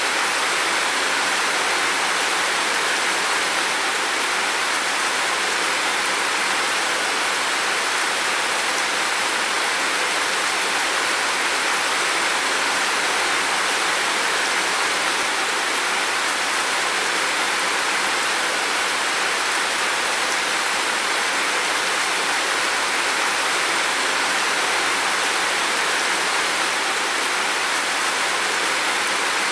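Heavy rain falling, a steady, dense hiss that holds an even level throughout.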